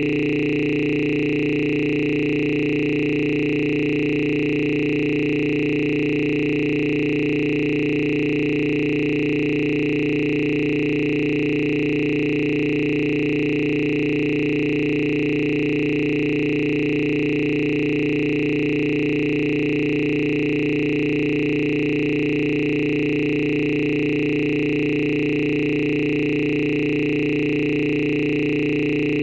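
A steady electronic drone of several held tones, low and high together, that does not change at all.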